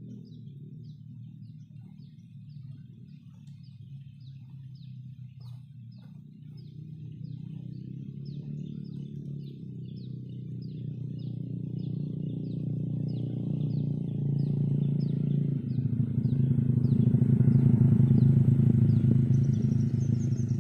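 A bird repeating a short, high, falling chirp about twice a second, over a low drone that slowly grows louder and is loudest near the end.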